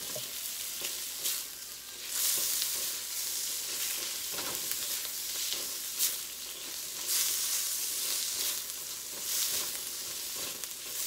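Shrimp and onion sizzling in hot oil in a wok over medium-high heat, stirred and turned with a silicone spatula. The sizzle swells and eases as the food is turned, with a sharp click of the spatula against the wok about six seconds in.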